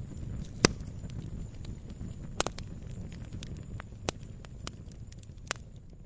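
Firewood burning and crackling: a steady low rumble of the flames under constant small crackles, with four sharper pops spread through, the loudest about half a second in.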